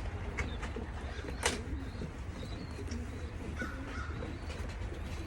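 Racing pigeons in a loft: faint bird calls over a low rumble, with one sharp click about a second and a half in.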